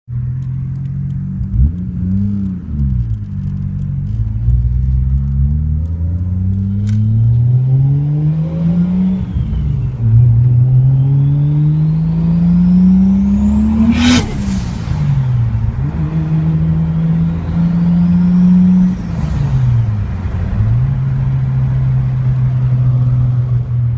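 Single-turbo Toyota 2JZ straight-six (BorgWarner S360 turbo at 12 psi) idling, blipped, then pulled up through the revs several times, the longest rise lasting about four seconds. A rising turbo whistle climbs with the revs and ends in a sharp rush of released air as the throttle closes, about halfway through and again a few seconds later, before the engine settles back to idle.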